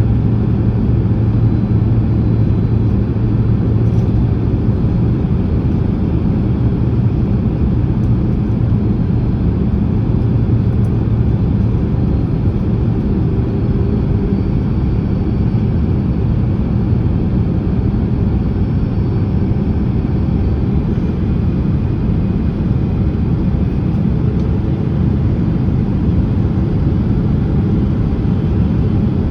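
Steady cabin noise inside a Boeing 767-300ER on final approach: a constant rumble of engines and rushing air with a low hum, unchanging throughout.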